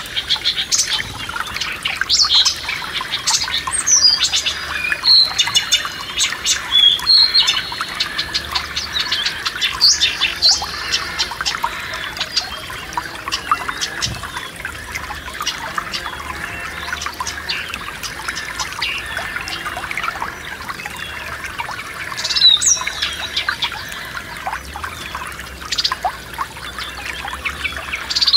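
Several songbirds chirping and singing in short phrases over the steady rush of a forest stream. The bird calls are busiest in the first few seconds and again briefly past the middle.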